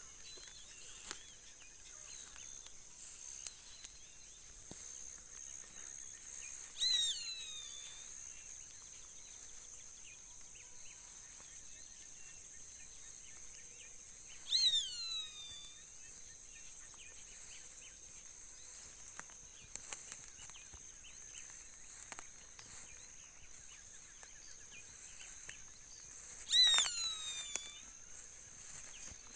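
A bird gives a loud call that sweeps steeply down in pitch, three times, spaced several seconds apart, the last one the loudest, near the end. A steady high insect drone runs underneath.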